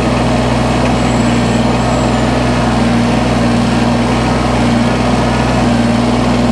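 Engine of a machine running steadily at a constant speed, a low, even hum.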